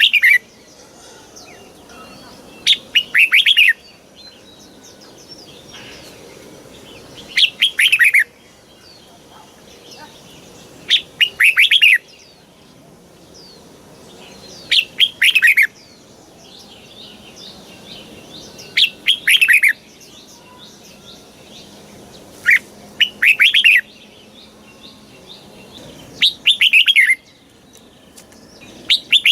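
Red-whiskered bulbul singing: short, bright song phrases of about a second each, repeated about every four seconds, with faint chirping between them.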